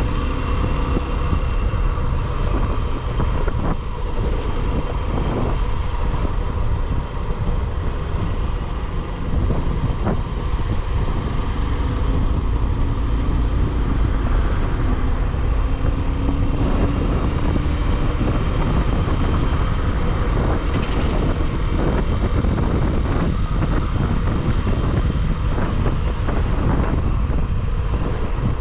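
Motorcycle riding at speed: steady wind rush buffeting the microphone over the running engine, with an engine note that climbs slightly midway.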